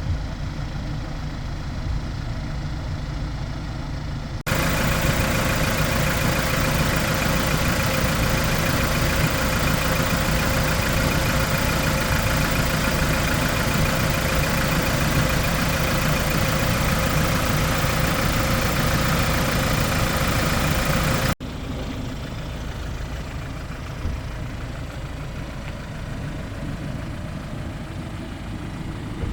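Hyundai Porter II truck's diesel engine idling steadily. It cuts abruptly twice, louder and hissier from about four seconds in until about twenty-one seconds.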